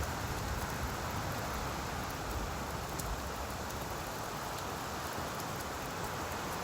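Steady rain falling on leaves: an even hiss with a few sharper drop ticks.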